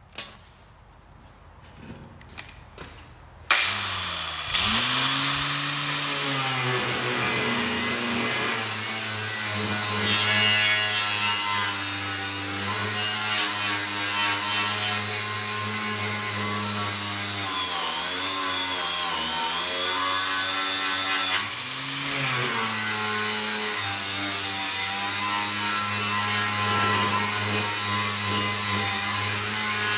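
A few clicks, then a cordless 4.5-inch angle grinder spins up about three and a half seconds in and runs steadily with a strip disc scraping rust off a steel welding tabletop. Its motor pitch sags a few times as the disc is pressed harder into the metal.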